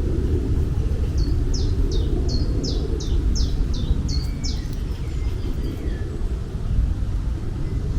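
A bird singing a run of about ten quick, high, falling notes, roughly three a second, over a steady low outdoor rumble.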